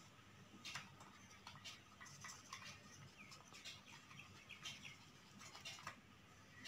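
Faint, irregular short chirps of birds, several a second, heard over a quiet room.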